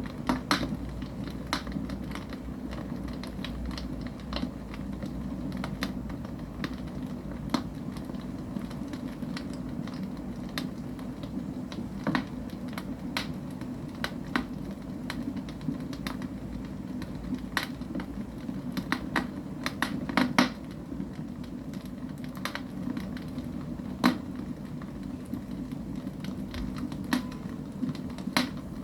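Wood fire burning in a fireplace: irregular crackles and snaps over a steady low rush of the flames, with a few louder pops.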